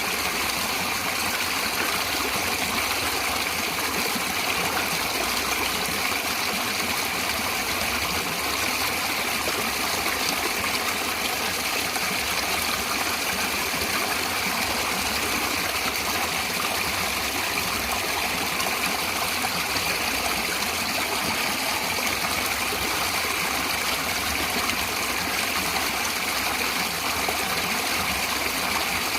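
Flowing natural water running with a steady, even rush.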